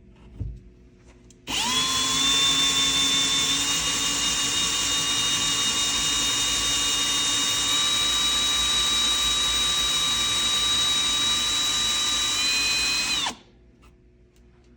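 Power drill boring into the wall and into a wooden 2x4 behind it. It spins up quickly, runs steadily for about twelve seconds, rises slightly in pitch near the end, then winds down when released. A brief knock comes just before it starts.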